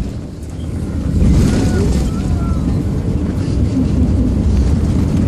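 Steady low rumble of an Airbus A380 in the landing phase, engine and airflow noise heard inside the cabin. It dips briefly at the start and grows louder from about a second in.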